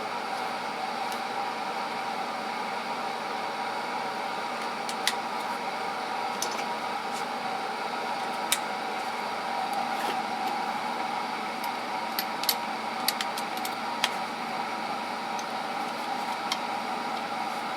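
Steady machine hum, like a shop fan, with scattered sharp clinks of metal hand tools being picked up and set down while a toolbox drawer is sorted, about nine between roughly five and sixteen seconds in.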